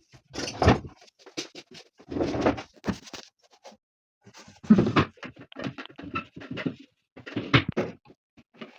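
Household cleaning and handling sounds: an irregular run of knocks, clicks and short rustling bursts as objects are moved and set down in a cupboard or drawer.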